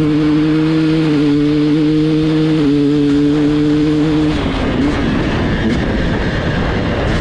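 KTM 300 XC-W two-stroke dirt bike engine on its stock factory exhaust, held at a steady raised rpm. The steady engine note drops away about four seconds in, leaving a rough, uneven rumble.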